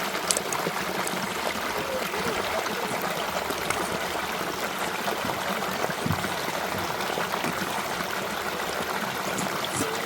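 Steady rush of running water from a stream, an even unbroken hiss.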